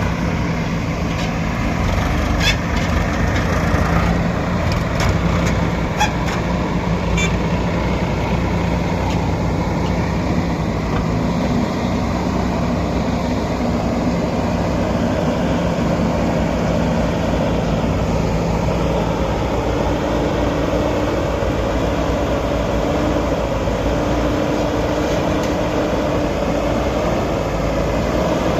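Diesel engine of a JCB backhoe loader running steadily under load, its pitch rising a little about two-thirds of the way through. A few sharp knocks in the first several seconds.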